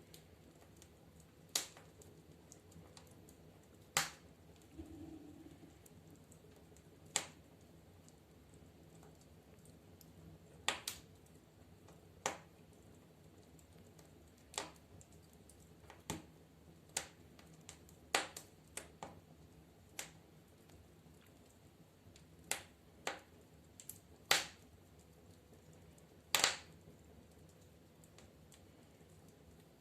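Wood fire crackling in a fireplace stove: sharp single pops and cracks at irregular intervals, usually one to three seconds apart, sometimes two in quick succession, over a faint steady background.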